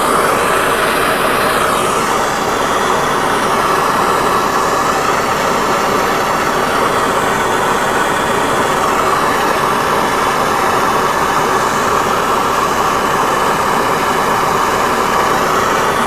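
Handheld gas torch burning with a steady, even rush of flame noise. It is heating the small end of a connecting rod until it expands enough to take a press-fitted gudgeon pin.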